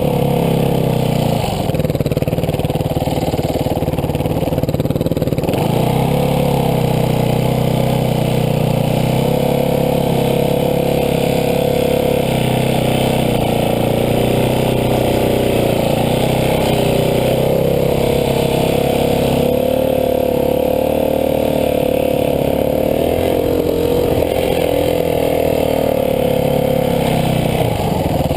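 Dirt bike engine running steadily under way, its pitch rising and falling with small changes in throttle.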